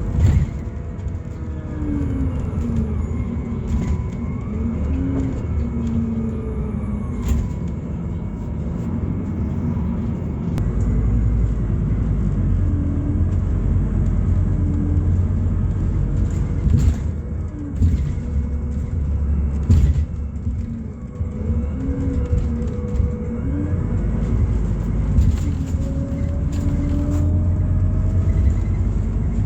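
Scania Citywide LFA natural-gas city bus under way, heard from inside: the low rumble of its Scania OC09 five-cylinder gas engine, with engine and drivetrain whine rising and falling in pitch as the bus speeds up and slows. A few short knocks and rattles from the body, and a long rising whine near the end as it accelerates.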